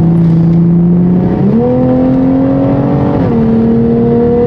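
Tuned Toyota Supra (MKV) engine pulling under acceleration, heard from inside the cabin. The revs jump up about a second and a half in and climb steadily, then fall sharply with an upshift about three seconds in and start climbing again.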